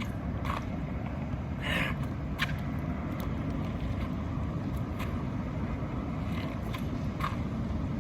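Steady low outdoor rumble with a couple of short breaths and a few light clicks or taps from a person exercising.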